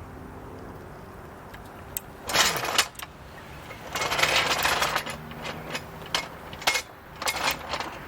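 Floor jack being let down so the car settles onto a jack stand: two loud bursts of metallic rattling, then several sharp metal clinks and clanks.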